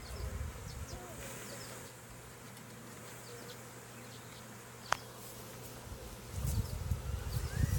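Honey bee swarm buzzing steadily as the bees drop into a nuc box. There is a single sharp click about five seconds in, and low rumbling noise builds near the end.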